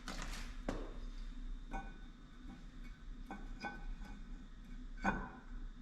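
Scattered light metallic clinks and taps, several with a brief ring. They are consistent with a drilled steel exhaust-port plate being handled and slid over the engine's manifold studs during a test fit.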